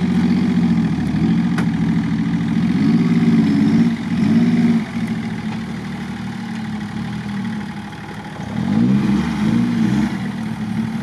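Off-road SUV engine running in deep mud, revving up and easing off several times as the vehicle is pulled free on a tow line: a couple of quick rises near the middle, then a longer climb in revs near the end.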